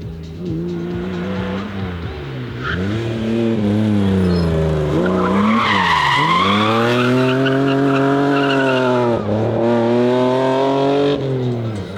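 BMW E30 M3's S14 four-cylinder engine driven hard, the revs rising and dropping several times through lifts and gear changes. About halfway it makes a long high-rev pull with tyre squeal, then dips, climbs again and drops off near the end.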